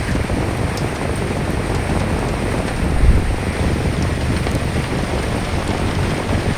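Steady rain pattering, with wind gusting over it as a low rumble that swells about three seconds in.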